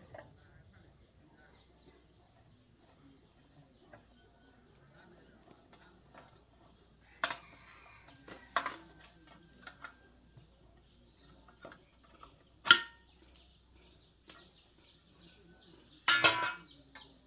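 Metal tools and small engine parts set down and handled in a few separate sharp clanks and clicks, the loudest about two-thirds of the way through and a short rattling cluster near the end. The engine is not running.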